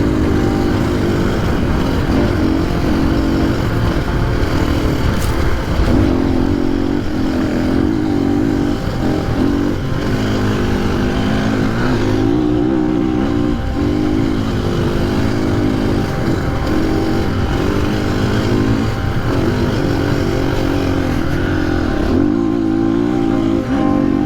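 KTM 500 EXC dirt bike's single-cylinder four-stroke engine running under way, its pitch rising and falling with the throttle and briefly dropping off a few times.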